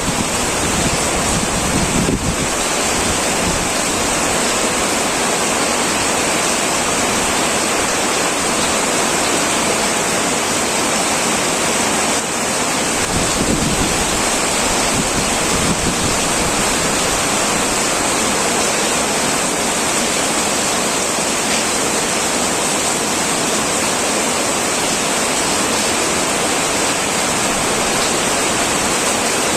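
Heavy rain falling on a tin roof: a steady, dense hiss, with a low rumble at the start and again about halfway through.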